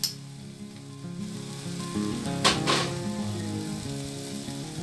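Chili-garlic paste sizzling as it fries in a wok. About two and a half seconds in, a metal spoon clinks sharply twice.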